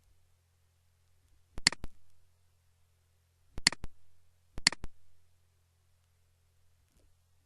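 Computer mouse clicked three times, each click a quick pair of ticks from the button going down and coming back up; the second click comes about two seconds after the first, the third a second later.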